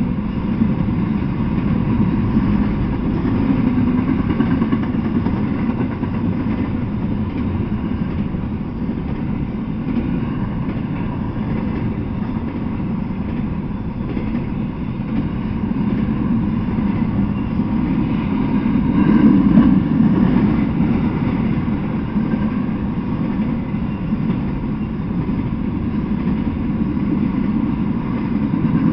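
Intermodal freight train of well cars rolling past, a steady rumble of wheels on the rails that swells about two-thirds of the way through.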